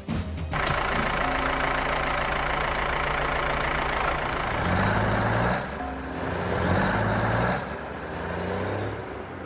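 Cartoon sound effect of a vehicle engine running steadily. Some low pitched tones come and go in the second half.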